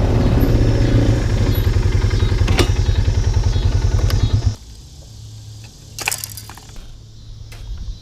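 Four-wheeler (ATV) engine running loudly with a fast, even low pulse, dropping off sharply about four and a half seconds in to a quieter low hum with a few clicks.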